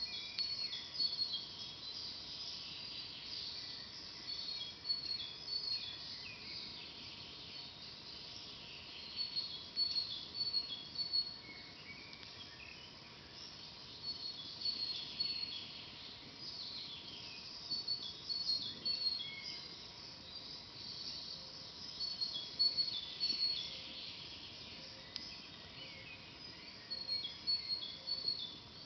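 Several forest birds singing and chirping, with short high notes repeated in quick runs and longer song phrases that come and go throughout.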